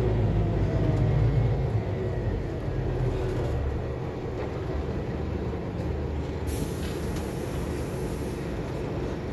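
Diesel engine and road noise inside a Scania K280UB4 city bus. The rumble is louder for the first three seconds, then eases off as the bus slows. About two-thirds of the way through comes a hiss of air lasting about two seconds.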